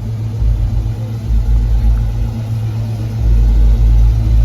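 A vehicle engine idling with a deep, steady low rumble, which gets louder about three seconds in.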